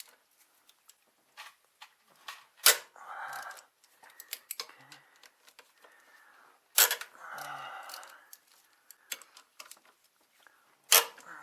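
Socket wrench working the AC compressor mounting bolts: scattered metal clicks and clinks, with three sharp clicks about four seconds apart, each followed by about a second of rasping.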